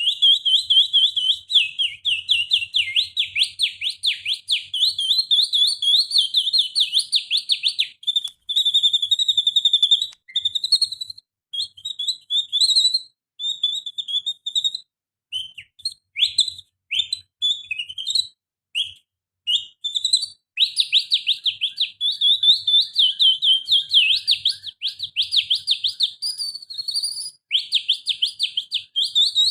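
Canary song imitated by a person whistling with the fingers: fast, high trills, broken in the middle by a patchier stretch of short separate notes, then continuous trilling again for the last third.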